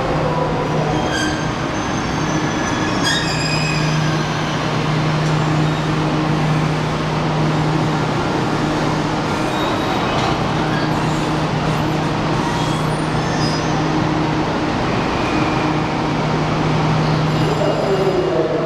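Cassiopeia sleeper train rolling slowly along the platform and coming to a halt. High squeals from the wheels and brakes come in the first few seconds and again about ten seconds in, over a steady low hum that carries on while the train stands.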